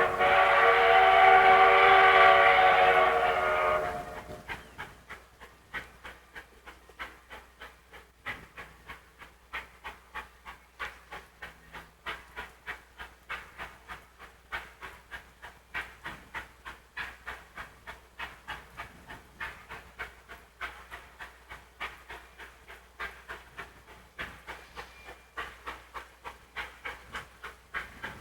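Steam locomotive sounding its multi-note whistle, which stops about four seconds in, followed by the rhythmic exhaust chuffs of the engine working hard, about two to three beats a second, as it pulls its train up a grade.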